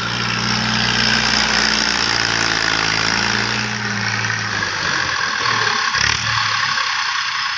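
Tractor engine running steadily at low speed, then growing fainter and less even about halfway through.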